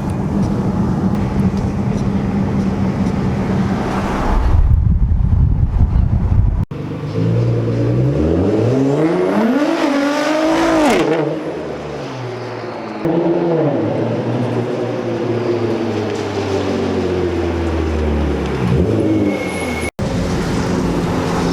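Straight-piped Nissan GT-R R35 twin-turbo V6 exhaust accelerating hard, its pitch climbing for about four seconds, then the revs falling slowly as it eases off. The sound cuts off abruptly twice.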